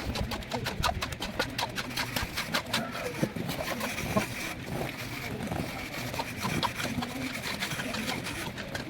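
Plastering trowel scraping and tapping on wet cement plaster, a rapid, irregular run of short scrapes and clicks.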